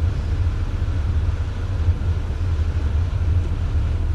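Steady low rumble of a 4x4 truck driving, heard from inside the cab: engine and road noise.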